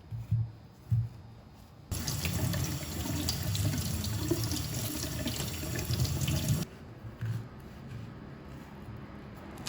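Tap water running into a sink for about five seconds, turned on about two seconds in and cut off sharply. Two short knocks come before it.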